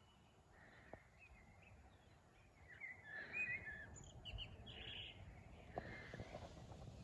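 Faint birds chirping, a cluster of short calls about three seconds in and a few scattered ones after, over a low steady outdoor rumble.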